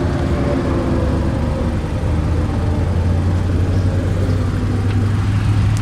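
A 2015 Mazda CX-5's engine idling steadily: an even, low hum with no change in speed.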